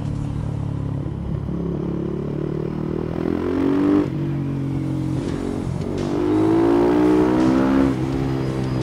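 Supermoto motorcycle engine pulling hard under acceleration: its pitch climbs and drops sharply at a gear change about four seconds in, then climbs again and drops near the end at a second shift.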